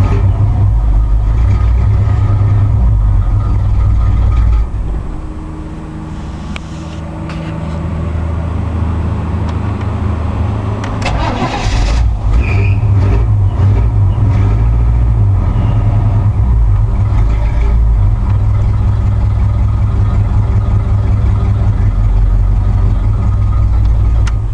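1986 Chevy K5 Blazer's 350 small-block V8 running through a Flowmaster exhaust, only firing on four cylinders. It runs loud, drops back to a quieter idle about five seconds in, picks back up to full level a few seconds later, and the sound stops abruptly near the end.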